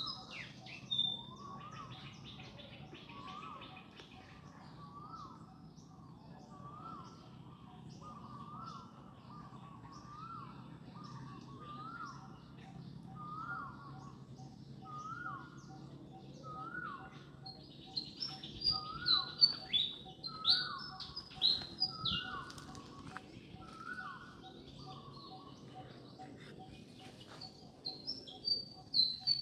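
Birds calling: a lower two-part note repeated about once a second through most of the stretch, with bursts of high, sharp, falling calls partway through and again at the end, the loudest sounds.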